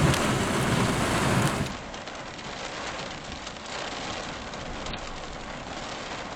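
Steady rain noise during a thunderstorm, loud with a low rumble for the first second and a half, then dropping abruptly to a quieter hiss.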